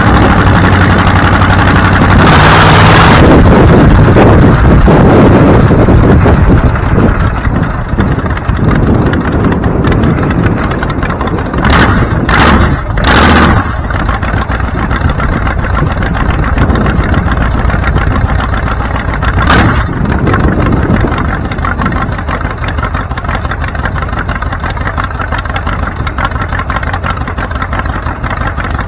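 Car engine idling steadily, then getting louder about two seconds in as the car pulls away. It settles into a steady driving rumble with road noise, broken by a few short loud bursts around twelve seconds and twenty seconds in.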